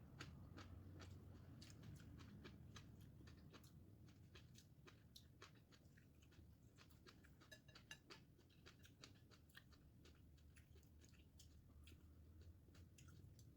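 Faint chewing of a meal eaten close to the microphone, with many small, irregular mouth clicks.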